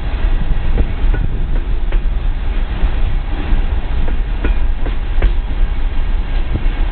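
Coal hopper cars of a freight train rolling past: a steady heavy rumble of steel wheels on rail, with irregular clicks and knocks as the wheels pass over rail joints.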